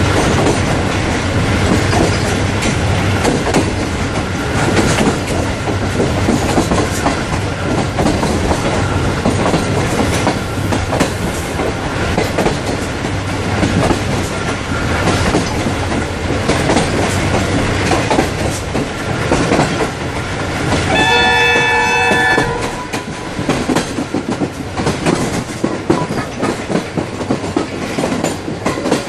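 Diesel-hauled passenger train running on the track, a steady rumble with the clickety-clack of wheels over the rails. About three-quarters of the way through, a train horn sounds once for about a second and a half.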